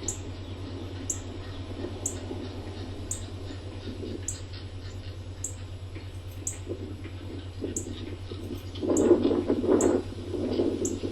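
Rain shower with a gust of wind that swells loudly about nine seconds in, over a steady low hum. A faint short high chirp repeats about once a second throughout.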